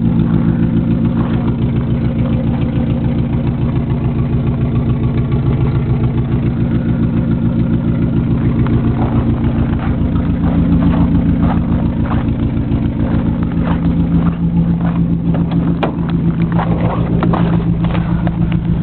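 1987 Nissan Sentra's carbureted 1.6L four-cylinder engine idling slowly and evenly, shortly after a cold start. A few light ticks come through over it in the second half.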